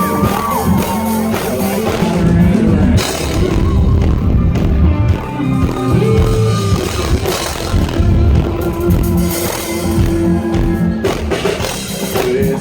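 Live country rock band playing an instrumental passage, with drum kit and electric guitar.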